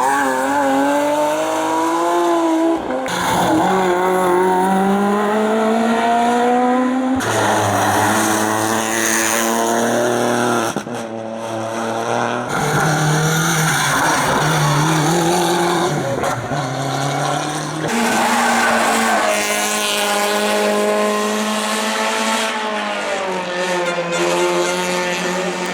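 Hillclimb race cars at full attack, engines revving up through the gears again and again, with tyres squealing at times; the sound jumps abruptly every few seconds as different cars and passes are cut together.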